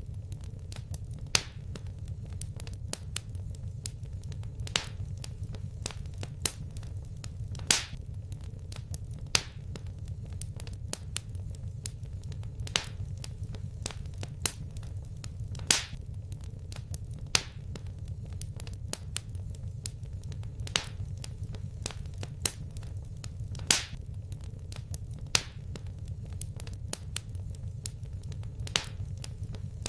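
Wood fire crackling in a fireplace: sharp pops every second or two and fainter crackles over a steady low rumble.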